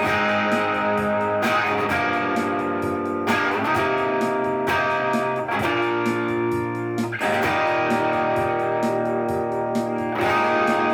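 Guitar playing chords that ring out, a new chord struck every one to three seconds.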